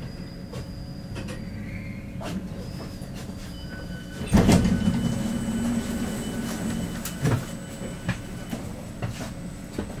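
Commuter train in motion, heard from inside the carriage: a steady low rumble of wheels on the rails. About four seconds in it turns suddenly louder into a rush with a low hum and a faint high whine, then a few sharp knocks from the wheels and carriage.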